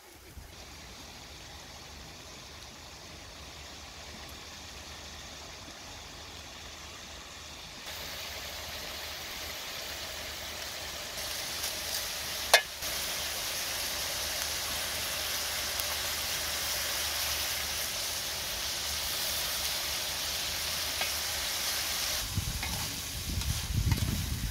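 Chicken and onions sizzling in a metal wok over a wood fire: a steady frying hiss that grows louder about a third of the way in. A single sharp knock about halfway through, and the wooden spoon stirring through the pan near the end.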